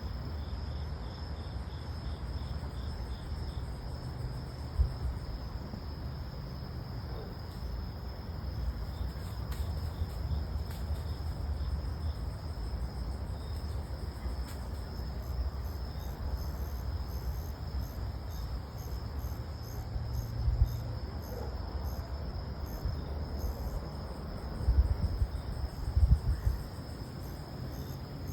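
Insects chirping steadily, a continuous high trill with faster pulsed chirps above it, over a constant low rumble. A few soft thumps come about 5 s, 20 s and 25 s in.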